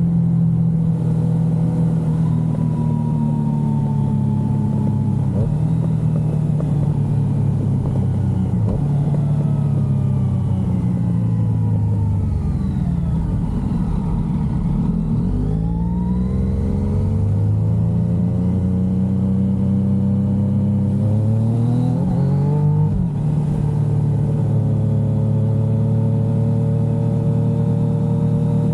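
Yamaha XSR900's three-cylinder engine heard from the rider's seat: running steadily, easing off with a falling note towards the middle, then accelerating with a rising note, with a brief break near two-thirds through as it shifts gear, before settling back into a steady cruise.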